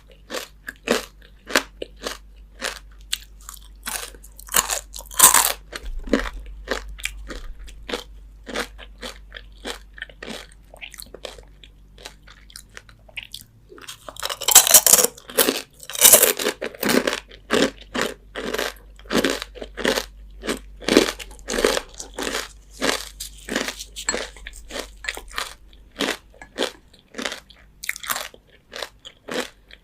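Crispy fried chicken skin being bitten and chewed: a continuous run of sharp crunches, a few a second, with louder clusters of crunching about five seconds in and around halfway through.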